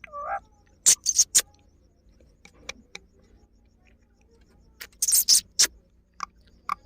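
Green ring-necked parakeet making a short bending call at the start, then sharp clicking chirps in quick groups about a second in, around five seconds in and near the end.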